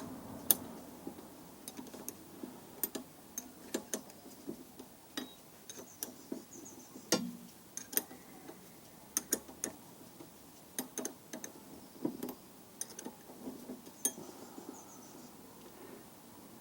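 Spanner clicking and clinking against metal in irregular light taps, one to three a second, while the 11mm brake pipe union nut on a rear wheel cylinder is undone.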